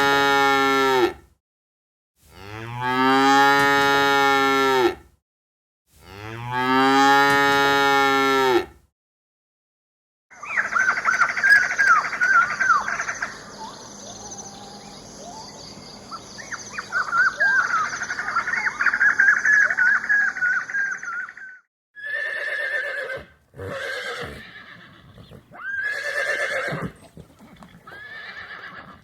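A cow mooing, three long moos. Then parrots squawking and chattering for about eleven seconds, followed by a horse whinnying four times near the end.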